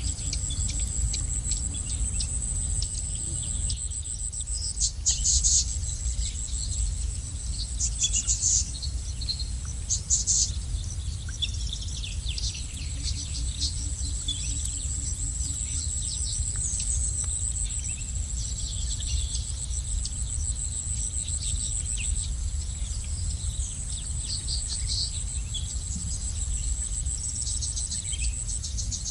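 Small birds chirping in short high bursts, loudest around five, eight and ten seconds in, over a steady high-pitched insect trill and a low background rumble.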